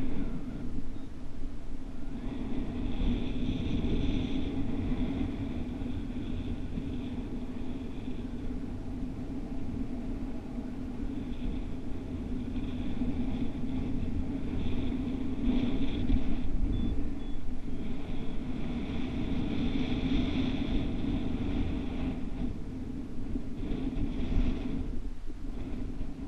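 Wind on the microphone during a free flight: a steady low drone, with a higher hiss that swells and fades several times.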